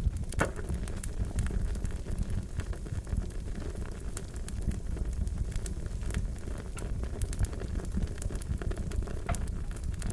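Fire crackling: a steady low rumble with many irregular sharp pops and snaps.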